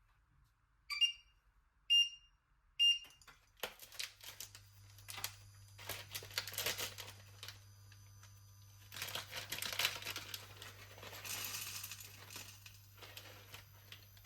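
A kitchen appliance's control panel beeps three times, about a second apart, then a low steady electrical hum starts as it switches on. Crinkling, rustling and light clattering of cooking preparation run over the hum.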